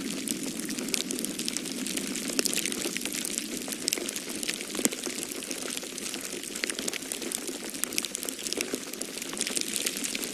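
Wood fire in a fireplace crackling with frequent sharp pops and snaps, over a steady low rush of blizzard wind.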